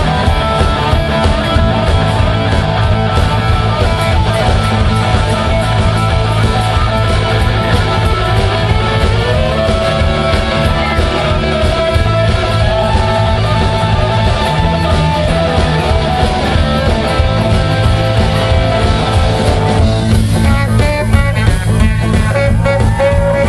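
Live rock band playing, with guitar prominent; the sound grows brighter about twenty seconds in.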